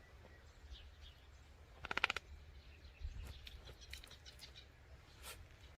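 Faint bird chirps, with one short, rapid rattling trill about two seconds in.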